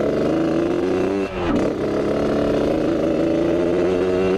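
Yamaha RX-King's single-cylinder two-stroke engine running through a loud aftermarket exhaust while riding, with a brief drop in revs about a second and a half in before it picks up again.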